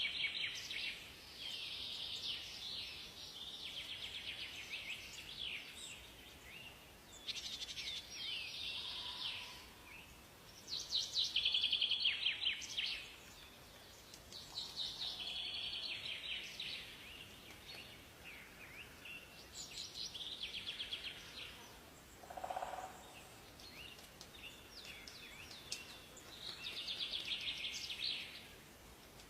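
Songbirds singing in a forest: short trilled, warbling phrases, high-pitched and repeated every few seconds, over a faint steady background hiss. The loudest phrase comes about halfway through, and a brief lower call sounds near the three-quarter mark.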